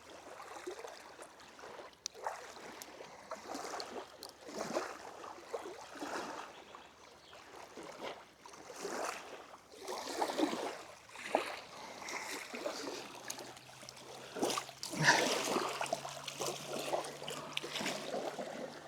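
Water trickling and lapping with small splashes, coming in uneven surges, with a few sharp clicks along the way.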